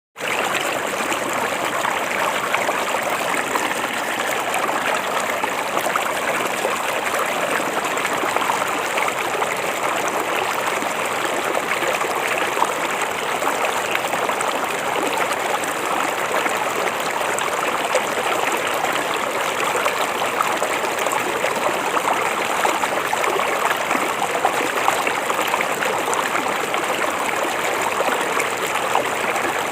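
River water flowing steadily, a continuous even rush and babble.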